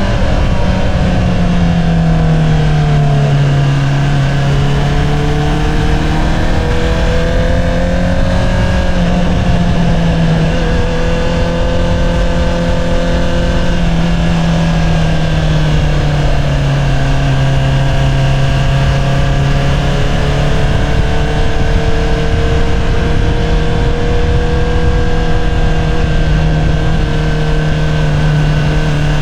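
Honda CBR650R's inline-four running through an Akrapovič single-outlet exhaust while riding. The engine note eases down and climbs again several times as the throttle is closed and reopened.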